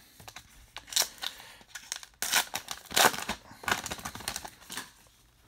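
Baseball card pack wrapper crinkling and tearing open in several short bursts, with the cards rustling in the hands.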